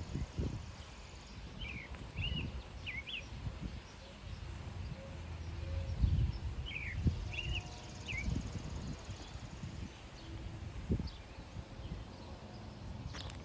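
A songbird sings the same short phrase of four or five quick chirps twice, a few seconds apart, over low irregular thumps of footsteps and rumble from handling the camera outdoors.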